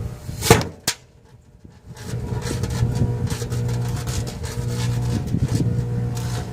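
Microwave oven humming steadily while firecrackers and caps inside it go off: a sharp loud bang about half a second in and a second one just after, then a run of smaller crackling pops over the hum.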